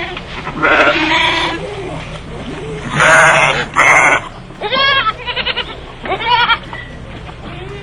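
Livestock bleating, several calls one after another: one about a second in, two louder, harsher ones around three to four seconds, then shorter quavering bleats near five and six seconds.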